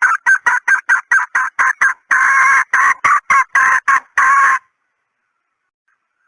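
Female red junglefowl clucking: a rapid series of short clucks, about five a second, with a few longer drawn-out notes, stopping abruptly about four and a half seconds in. This is a hen's call of the kind used as a decoy to lure wild junglefowl.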